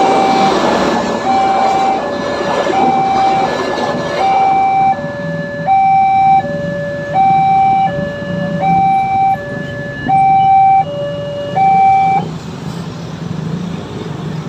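Railroad level-crossing warning alarm: an electronic two-tone signal alternating high and low about every 0.7 seconds, cutting off about twelve seconds in. The passing train's rumble fades out in the first few seconds.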